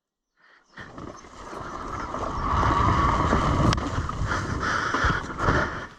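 Dirt bike running on the trail: starting about a second in, the engine and riding noise build up over a couple of seconds as the bike gets under way, hold steady, then ease off near the end.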